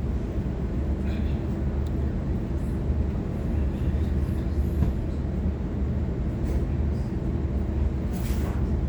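Steady low hum and rumble inside the carriage of a Waratah electric multiple-unit train, with a short hiss near the end.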